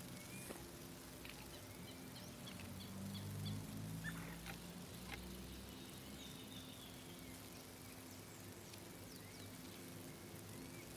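Small birds chirping outdoors, with scattered short high chirps and repeated little arching calls, over a faint steady low hum that swells briefly near the middle.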